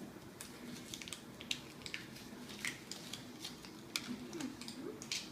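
Kinder Chocolate bar wrapper being opened and handled: irregular small crinkles and clicks, several a second.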